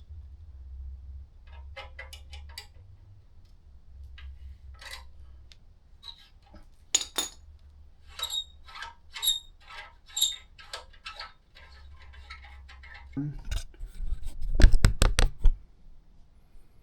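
Metal tools and fasteners clinking and clicking as exhaust bolts are worked loose with a socket, with several ringing metallic clinks partway through. A louder burst of rapid knocks comes near the end.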